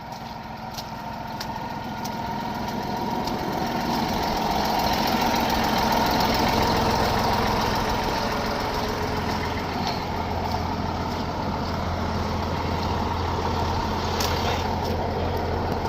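Truck engine running. It grows louder over the first several seconds, then holds steady, with a low steady hum coming in partway through.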